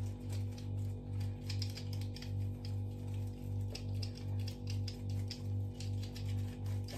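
Light, irregular clicking and ticking from an electric shaver being handled and cleaned, over a steady low hum that throbs about two and a half times a second.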